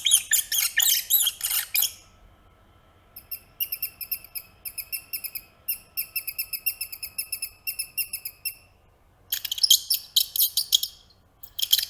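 Rat squeaking: runs of quick, high-pitched squeaks, about four a second, in several bursts.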